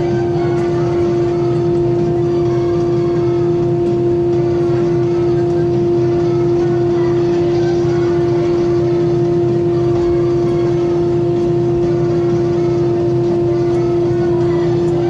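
Airbus A320 cabin noise while taxiing after landing: a loud, steady hum with one constant high tone held throughout.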